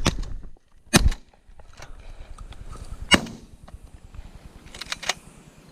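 Shotgun shots fired at doves: two loud reports about a second apart at the start, another about three seconds in, and a couple of fainter shots near the end.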